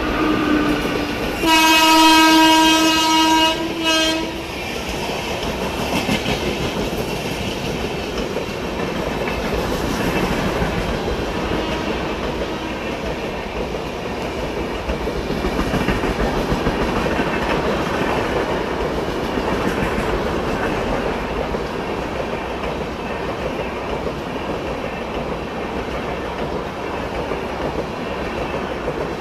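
Express passenger train passing through at speed. The locomotive's horn sounds briefly at the start, then gives a loud blast about a second and a half in that lasts about two and a half seconds. After that come the steady rumble and clickety-clack of the coaches going by close at hand.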